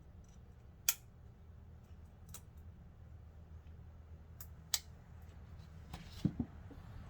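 A handful of sharp metallic clicks and taps, scattered a second or two apart, from tools and brake parts being handled at a car's front disc brake during a pad change, over a low steady hum.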